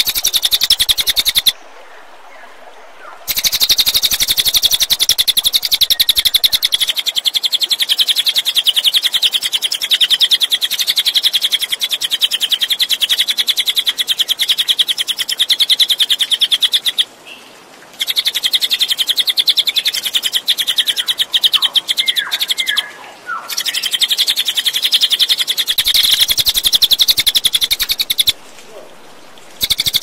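Crested jay (cililin) calling: a long, very fast, rattling series of high notes, broken by three short pauses.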